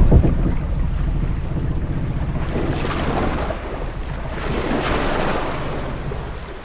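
Sea waves washing against a ship at sea, with wind. A heavy low rumble eases after the start, and two swells of wash rise and fall about three and five seconds in.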